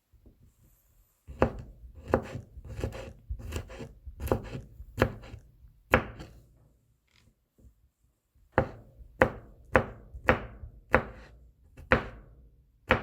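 Kitchen knife mincing garlic cloves on a cutting board: repeated sharp chopping knocks, about one and a half a second, with a pause of a couple of seconds midway before the chopping resumes.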